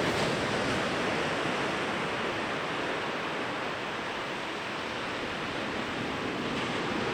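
Waves breaking and washing onto a beach: a continuous rushing surf that eases a little midway and builds again towards the end.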